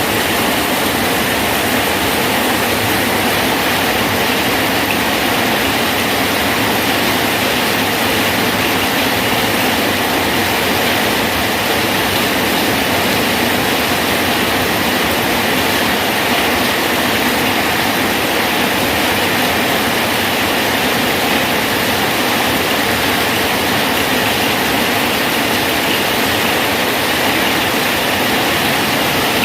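Steady rain falling on a bridge, an even unbroken hiss of many drops with no change in intensity.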